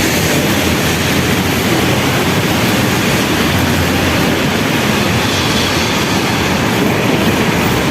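Steady rushing noise of traffic on wet streets.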